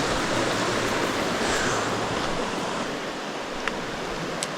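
Steady rush of flowing creek water, with two faint clicks near the end.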